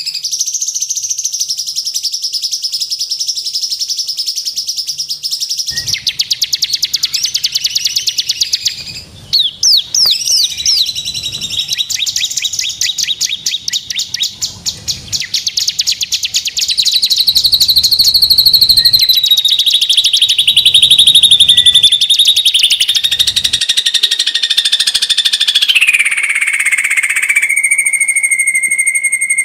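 A medley of rapid, high-pitched songbird trills and chirps, switching to a different trill every few seconds and ending in a steady pulsed tone. It is a masteran, a bird-song recording played to young cage birds to teach them songs.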